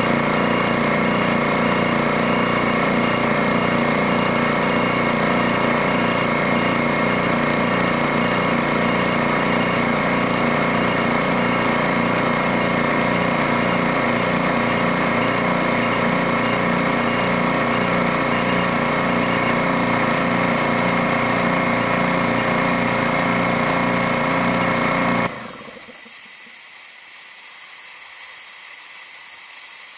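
Dewalt D55146 electric air compressor running its pump steadily, then shutting off suddenly about 25 seconds in at its cut-out pressure. A steady hiss of escaping air follows: the faulty check valve is letting tank air back out.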